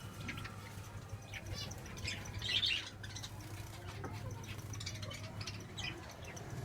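Small pet parrots chirping and squawking in short, scattered calls, with a louder flurry of calls a little over two seconds in. A steady low hum runs underneath.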